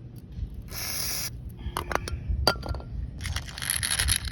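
WD-40 aerosol can spraying: a short hiss about a second in, then a few clicks and clinks of the key and can, and a longer spray hiss near the end.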